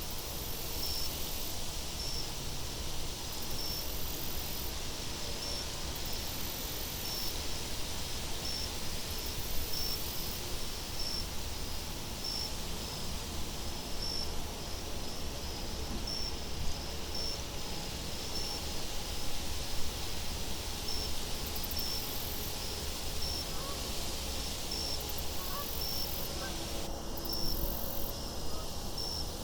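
Crickets chirping in a steady rhythm, a little faster than once a second, over a low wind rumble, with a higher insect trill coming in bursts about every two seconds.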